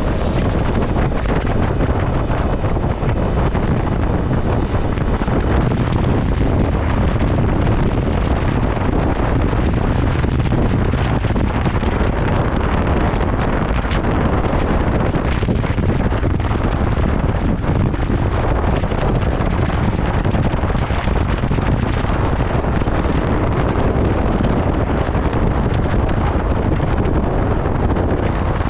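Heavy wind rushing over the microphone of a moving motorcycle, a steady dense rumble with no break.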